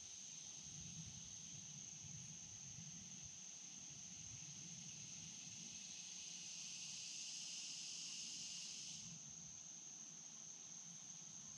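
Insects, crickets or the like, trilling in a steady high-pitched drone, with a second, louder buzzing chorus that swells about halfway through and cuts off suddenly a few seconds before the end. A faint low rush of the flowing stream lies beneath.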